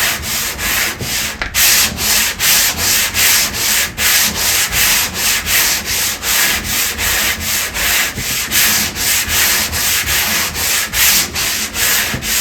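Hand sanding a wooden boat hull with quick, even back-and-forth strokes, about three a second, a steady rasp of abrasive on wood and filler. The sanding fairs the join between two planks.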